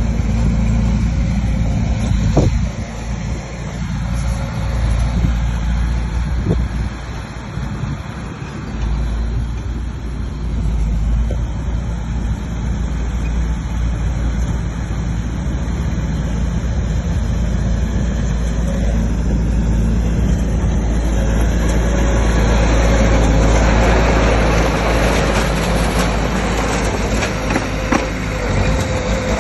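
Bulldozer's diesel engine running steadily under load, with a couple of sharp knocks in the first few seconds. It grows louder and rougher from about two-thirds of the way in, as the engine works harder.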